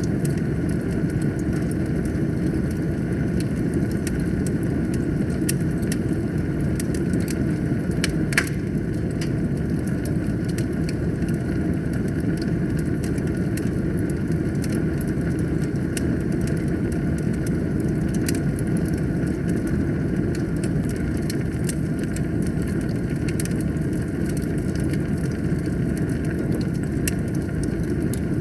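Wood fire in a fireplace burning with a steady low roar and scattered crackles and pops, one sharper pop about eight seconds in.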